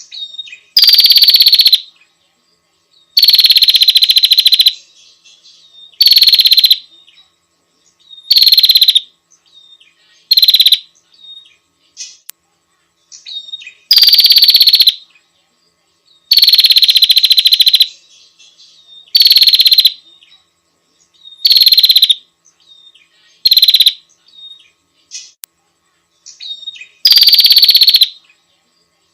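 Female prenjak (prinia) giving loud, buzzy rattling calls, each about a second long and repeated every two seconds or so, with soft short chirps in between. This is the female's call to a male, the kind used to lure male prenjak.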